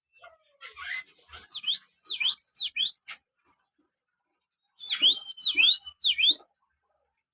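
Cinereous tit calling: two series of three or four sharp, quick down-and-up chirps, about three seconds apart, with a few soft rustles between.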